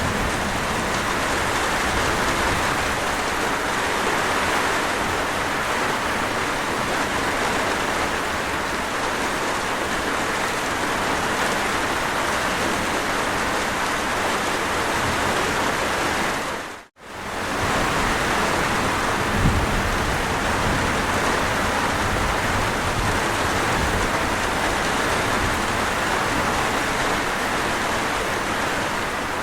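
Steady heavy rain falling, an even, continuous hiss. It cuts out for a split second more than halfway through, then resumes unchanged.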